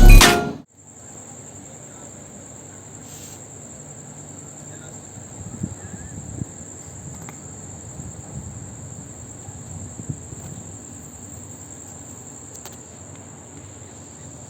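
Insects, likely crickets, trilling in one steady, unbroken high-pitched note over a low rumble, with a few faint knocks. Loud music cuts off abruptly right at the start.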